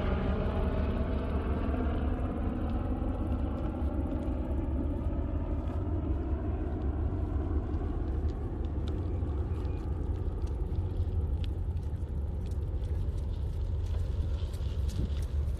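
Wind rumbling on the microphone of a bicycle on the move, with the drone of a passing engine that slowly rises in pitch and fades away over the first five or six seconds. Light scattered ticks come in during the second half.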